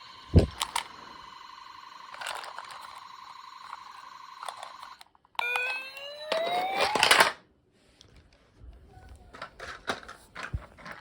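Toy truck's electronic sound effects from a small speaker: a steady alarm-like tone that cuts off about five seconds in, then a rising siren wail. Knocks and clicks of the toy being handled, one loud knock about half a second in.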